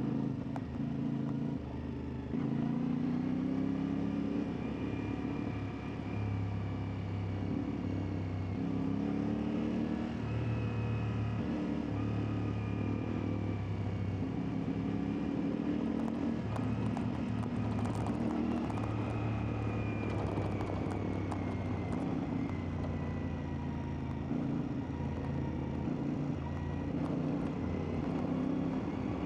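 CFMoto 450MT's parallel-twin engine running under way, its pitch rising and falling again and again as the throttle is worked through the gears.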